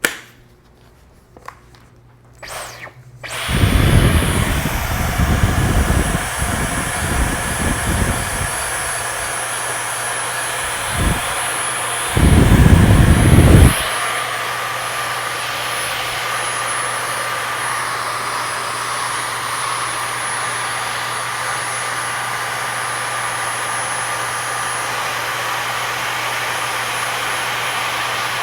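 Vacuum cleaner switched on after a few clicks and running steadily with a high-pitched whine, with two spells of louder low rushing in the first half, as the nozzle works dirt out of the inside of a disco light.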